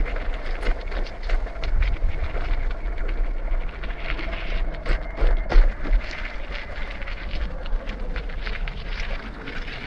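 Mountainboard wheels rolling over a trail: a steady rough hiss with scattered small clicks and knocks, under wind rumbling on the microphone. The sound fades slightly toward the end.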